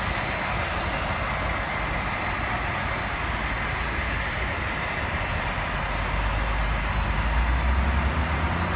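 Jet engine noise from a Boeing 777-300ER's GE90 turbofans at takeoff power: a steady rushing sound with a thin high whine, and a deep rumble that swells louder near the end.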